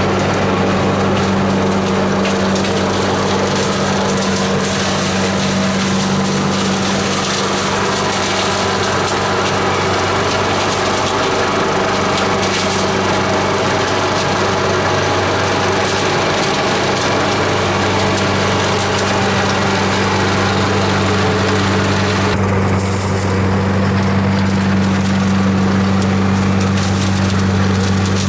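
Parker Scavenger SV89301CSP big vacuum cleaner running with a steady low drone, sucking up leaves with a noisy rush of debris; about 22 seconds in the higher hiss thins while the drone carries on.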